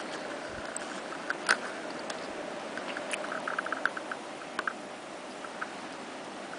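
Blizzard wind blowing as a steady hiss, with a scatter of small ticks and clicks from about a second in until near the end, the loudest about a second and a half in.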